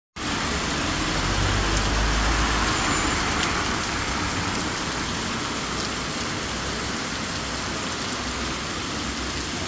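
Heavy rain falling in a steady hiss, with a low rumble underneath for the first few seconds.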